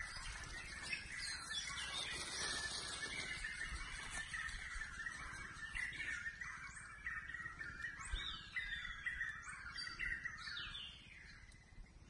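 Several birds chirping and calling, with short calls sweeping down in pitch, over a steady high background chorus; it grows quieter near the end.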